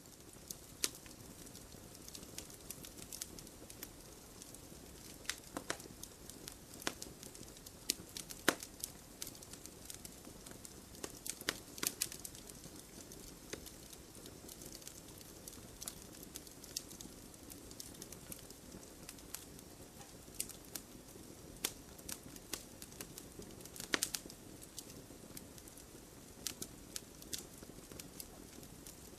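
Wood fire crackling: irregular sharp pops and snaps over a steady low rustle of burning.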